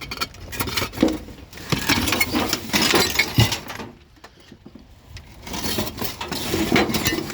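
Broken toilet porcelain clattering and clinking as someone climbs and shifts over a pile of it, with sharp knocks of shards against one another, a quieter lull about halfway through, then more clatter near the end.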